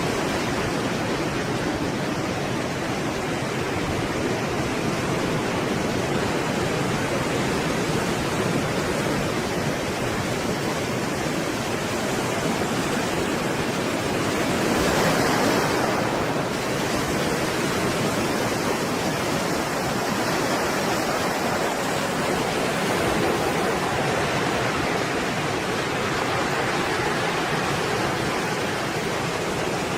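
Stormy sea surf: a steady rushing wash of waves, with one louder, brighter wave breaking about halfway through.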